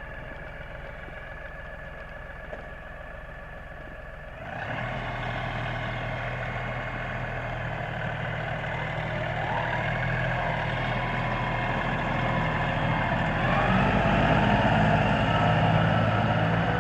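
LS 4135 compact tractor's diesel engine running steadily, then throttling up sharply about four and a half seconds in and climbing further in pitch and loudness as it works, loudest near the end.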